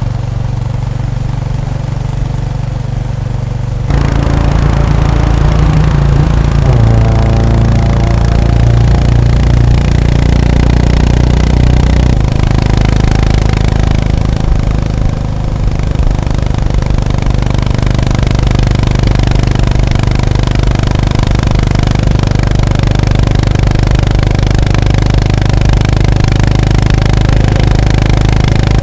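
Honda GB350S (CB350RS) single-cylinder engine and exhaust, first idling steadily, then getting suddenly louder about four seconds in as the bike pulls away. The engine note rises and shifts in steps for several seconds, then settles into a steady run.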